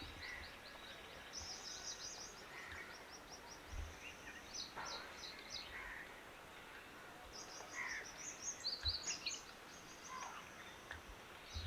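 Faint small birds chirping and twittering in quick high-pitched runs, with a few lower single calls, over quiet outdoor ambience.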